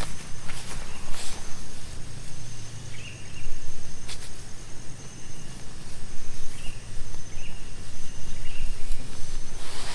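Steady rain falling, with scattered sharp taps. A few faint, short chirps come about three seconds in and again around six and a half and seven seconds.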